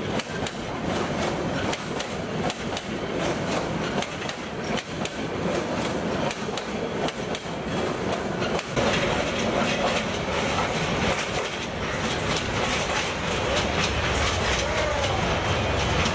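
Sonar Bangla Express passenger coaches running past close by, the wheels clicking over the rail joints over a steady rumble. About eight to nine seconds in, the sound becomes a denser, slightly louder rumble.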